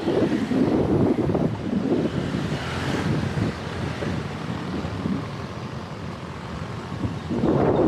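Wind buffeting the microphone of a rider on a moving folding electric bike, in uneven gusts. It eases off in the middle and picks up again near the end.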